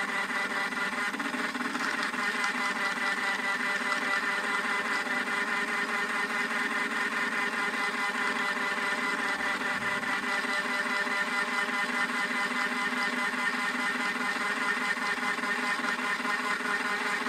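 Battery-powered toy washing machine running: its small electric motor whirs steadily with a fine rapid flutter and a few steady humming tones.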